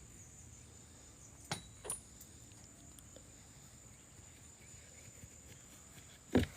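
Quiet outdoor background with a steady high-pitched insect drone, like crickets or cicadas. A couple of light clicks come about a second and a half in, and a sharp thump near the end.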